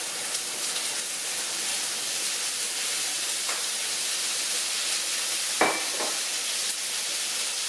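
Chopped grilled chicken, onion and bacon sizzling in hot oil in a frying pan, a steady frying hiss. A sharp knock about five and a half seconds in.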